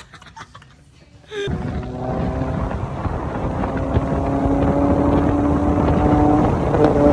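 Honda Prelude H22 four-cylinder engine and exhaust at a steady cruise, a droning note over loud wind rush on the microphone. It starts suddenly about a second and a half in and grows slightly louder.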